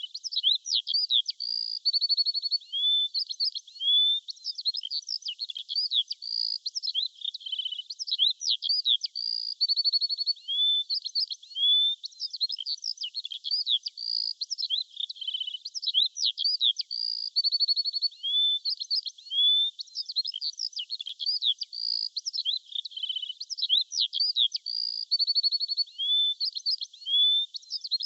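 Songbirds singing: a steady run of quick chirps, short trills and whistled notes, some rising in pitch, with the same phrases coming back about every six seconds, as in a looped recording.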